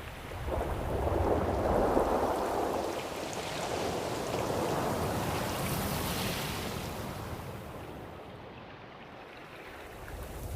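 Ocean surf: waves washing in, swelling about a second in and again in the middle, then ebbing away near the end.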